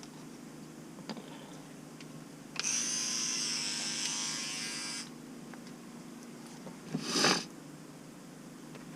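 Battery-powered electric toothbrush buzzing steadily for about two and a half seconds, then switching off. A short, louder burst of noise follows about seven seconds in.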